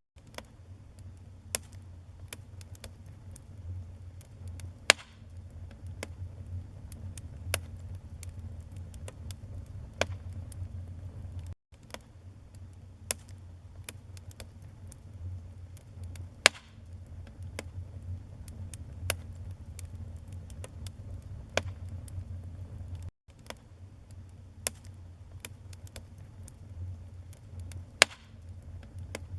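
Wood burning in a fireplace: a steady low rumble of flames with irregular sharp crackles and snaps, a few markedly louder pops among them. The sound cuts out for an instant twice, where the recording loops.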